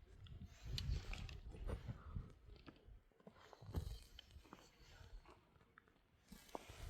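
Faint, irregular crunches and clicks over a low rumble.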